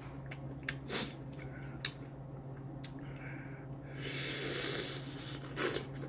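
A person eating: small mouth clicks while chewing, and a noisy breath through the nose lasting about a second, about four seconds in. A steady low hum runs underneath.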